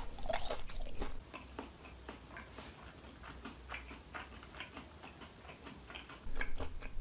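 Close-up chewing of battered fried chicken, then a quieter stretch of faint scattered clicks from about a second in, with louder chewing returning near the end.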